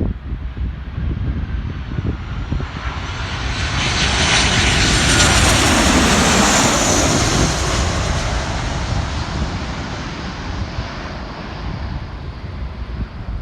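Boeing 737 jet airliner passing close by: the engine noise swells to a loud peak about five to seven seconds in, with a high whine that falls in pitch as the aircraft goes past, then fades away.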